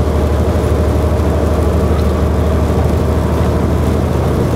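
Semi-truck's diesel engine droning steadily while driving, heard from inside the cab along with road noise.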